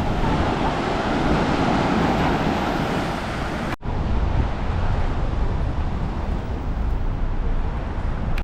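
Steady outdoor noise of road traffic mixed with wind on the microphone, with no distinct events. About four seconds in, the sound cuts off abruptly and resumes with a heavier low rumble.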